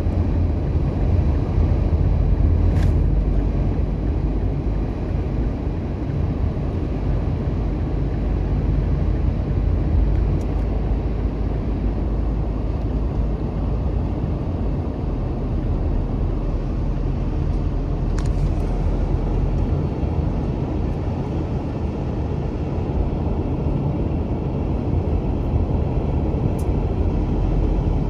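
Steady in-cabin road noise of a car driving: a low, even drone of tyres and engine with a few faint ticks.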